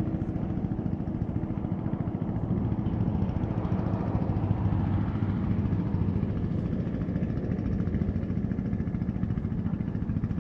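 BMW R1200GS boxer twin engine running steadily at a low, even speed.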